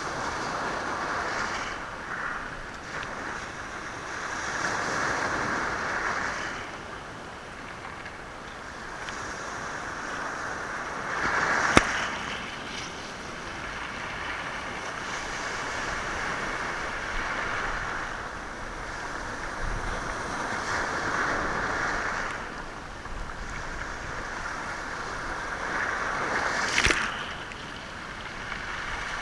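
Sea waves washing in and out over a stony shore, the surf swelling and fading every few seconds, with stones clacking sharply twice as the water moves them.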